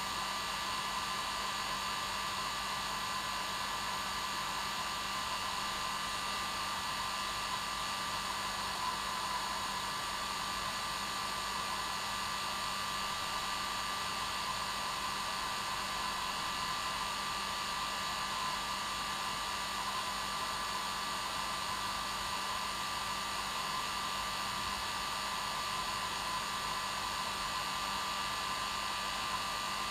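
Hair dryer running steadily, a constant whooshing hiss with a steady motor hum under it. No change in speed or pitch.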